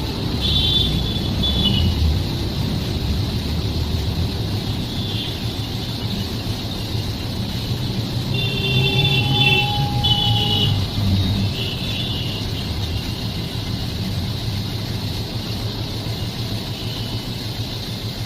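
Train running, a steady low rumble with short high-pitched squeals near the start and again about halfway through.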